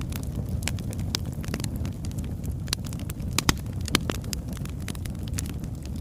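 Wood fire burning logs, crackling with frequent irregular pops over a low steady rumble of the flames; a couple of sharper, louder pops come a little past the middle.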